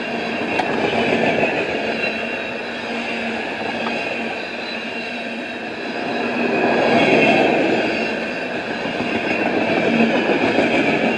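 Freight cars rolling past at speed: a steady rush and rattle of steel wheels on rail, swelling louder for a couple of seconds about two-thirds of the way through.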